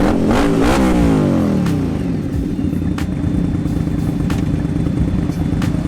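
Motorcycle engine running steadily under way, with a low rumble. In the first two seconds an engine winds down, its pitch falling, as the throttle closes, and there are a few short clicks later.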